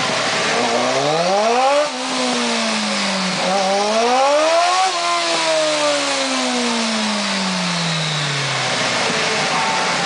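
Suzuki GSX 650F inline-four engine on a dynamometer pull: it revs up, drops sharply in pitch about two seconds in, climbs again to a peak near five seconds, then winds down over about four seconds.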